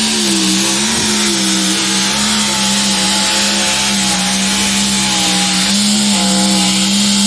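A mini rod pulling tractor's high-revving engine running flat out under load down the pulling track. It holds a loud, steady high note with a couple of brief wavers in pitch, then drops off suddenly near the end as the pass finishes and the engine is backed off.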